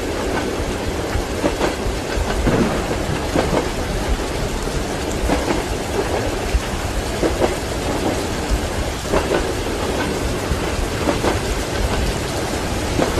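Steady rain with the knocking of train wheels over rail joints, repeating every second or two, over a low rumble.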